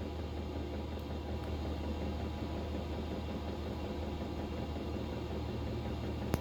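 Chinese diesel air heater running steadily at its highest setting, a constant low hum of its blower and burner. A single short click near the end.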